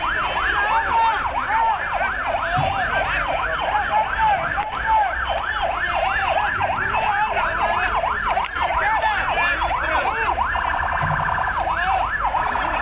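Several emergency-vehicle sirens sounding at once in fast, overlapping rising-and-falling yelps. A quicker warbling siren pattern cuts in briefly about ten seconds in, and again near the end.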